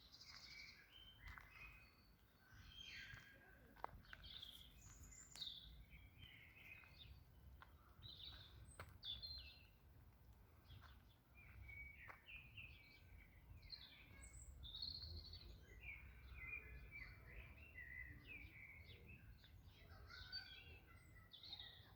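Faint bird song: many short chirps and twittering notes from several small birds, overlapping throughout, over a low steady rumble.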